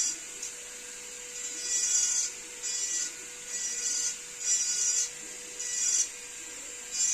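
Wood being carved in repeated scraping strokes, about one a second, each a short rasping hiss. A faint steady hum runs underneath.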